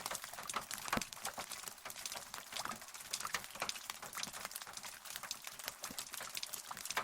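Rain falling, with many close drops tapping in a quick, irregular patter over a soft hiss, and one heavier drop about a second in.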